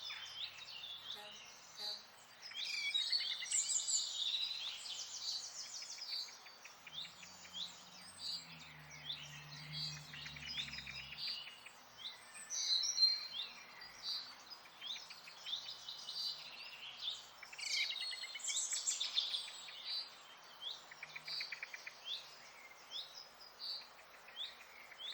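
Several small birds chirping and trilling almost without pause over a steady hiss of outdoor ambience. A faint low hum joins in for a few seconds about seven seconds in.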